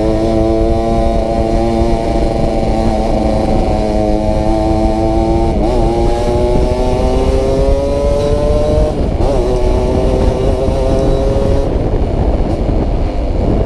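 Yamaha RX-King's 135 cc two-stroke single-cylinder engine and exhaust under way, the engine note climbing slowly and dipping briefly twice, about six and nine seconds in, as the rider changes gear.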